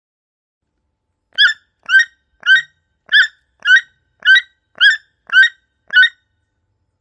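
Toucan calling: a run of nine short, sharp yelping calls, about two a second.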